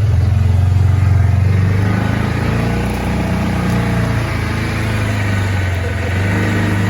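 Polaris Ranger 570's single-cylinder engine running hard at high throttle as the UTV climbs a steep grade, a steady drone that eases slightly about two seconds in.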